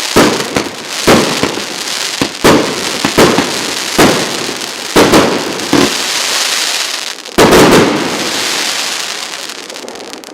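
A 100-shot firework cake of 1.25-inch (32 mm) tubes firing, each shot a sharp bang followed by a hiss. A last tight cluster of bangs comes about seven seconds in, then the hiss fades away as the battery finishes.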